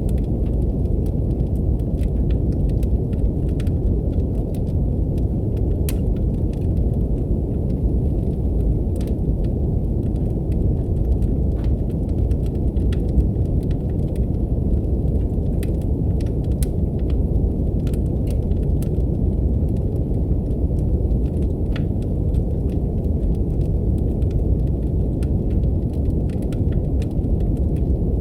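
Steady brown noise, a deep even hiss, with faint wood-fire crackles popping irregularly over it.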